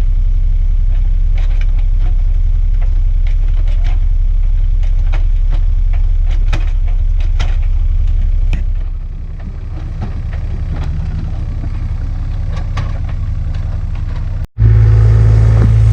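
Kubota U55-4 mini excavator's diesel engine running steadily, with frequent metallic clanks and knocks over it. The engine level drops a little past halfway. Near the end the sound cuts out for an instant and comes back louder.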